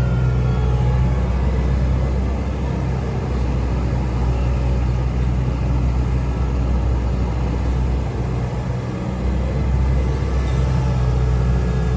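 Hitachi Zaxis hydraulic excavator's diesel engine running steadily as the machine works, a low drone that eases briefly about two-thirds of the way through and then picks back up.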